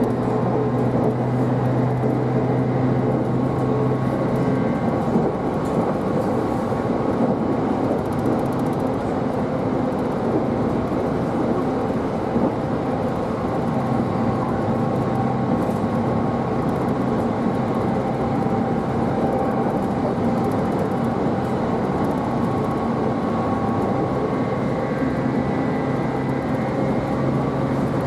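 Train running noise heard from inside the carriage: a steady rumble of wheels on track with a hum from the motors that shifts slightly every few seconds.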